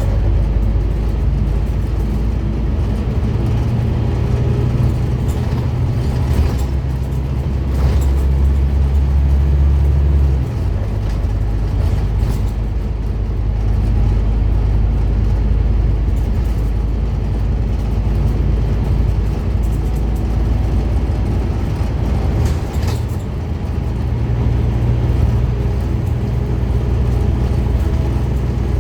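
Scania N230UD Omnicity double-decker bus's diesel engine running under way. Its low note strengthens for several seconds, drops off suddenly about ten seconds in, and builds again near the end.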